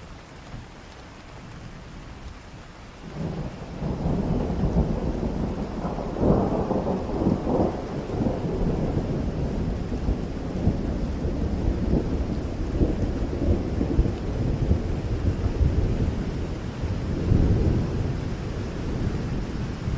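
Steady rain, joined about three seconds in by a long rolling rumble of thunder that swells twice, around the middle and again near the end.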